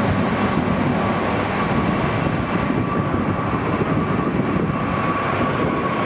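Jet airliner's engines: a steady roar with a thin whine on top that sinks slightly in pitch near the end.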